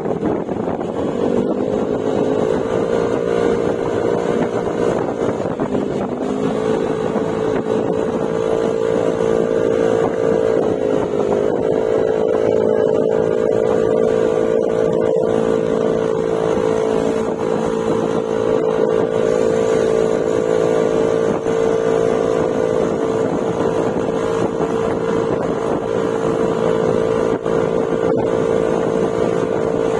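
Yamaha Mio Gravis scooter's 125cc single-cylinder engine running through an aftermarket Akrapovic exhaust with silencer, a steady drone while riding. Its pitch rises a little a few times in the first ten seconds or so, then holds steady at cruising speed.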